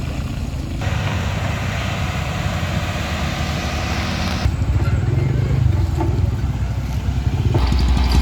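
Vehicle engines running, with the sound changing abruptly three times, as between cuts of different road traffic clips.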